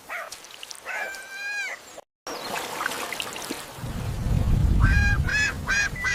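Cartoon duck quacking: a longer honking call about a second in and a quick run of short quacks near the end, with a low rumble underneath in the second half.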